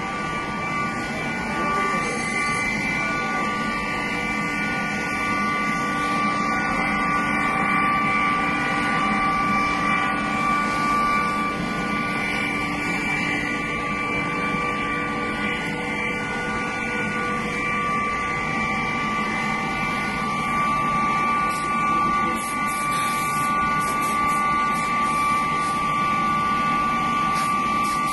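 A steady machine drone with a constant high whine.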